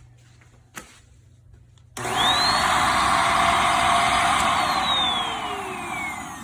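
iwoly V600 corded stick vacuum's motor switching on about two seconds in, whining quickly up to speed and running loudly, then winding down with a falling whine. A single click comes a little before it starts.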